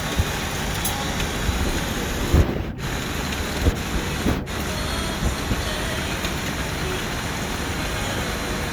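Heavy rain falling, a steady hiss, with a few short low thumps.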